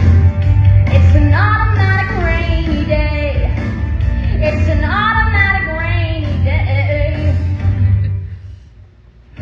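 Female voices singing a song over an instrumental backing with a strong bass line. The music fades out briefly near the end.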